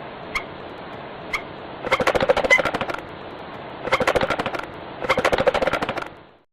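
Marabou stork clattering its bill: a few single clacks, then three bursts of rapid clacking.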